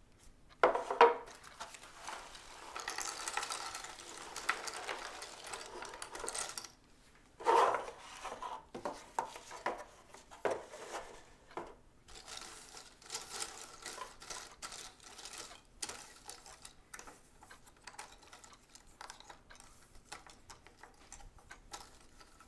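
Small handling sounds in a room: irregular clicks, clinks and knocks with stretches of rustling, the loudest knocks about a second in and again about a third of the way through.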